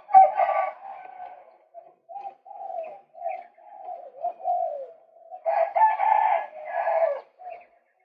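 Male white-breasted waterhen calling: a run of repeated croaking notes, with louder bursts right at the start and again from about five and a half seconds in.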